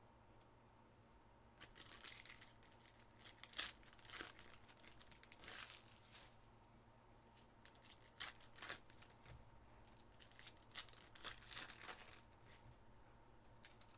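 Trading card pack wrappers being torn open and crinkled, in irregular short bursts of crackling.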